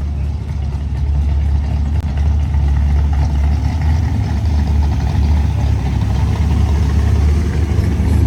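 A car engine idling with a deep, steady rumble, growing a little louder about a second in.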